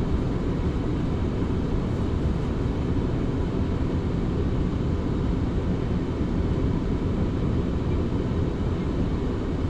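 Steady low rumble of a passenger train running along the line.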